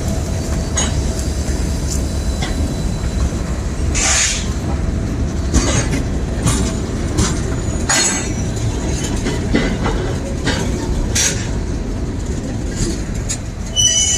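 A railway train rolling past with a steady low rumble, broken by brief sharp high-pitched squeals every second or two.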